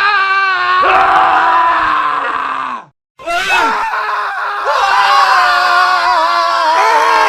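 Men screaming: one long, loud scream that drops in pitch and cuts off about three seconds in, then a brief dead silence, then another man's long scream with a wavering pitch.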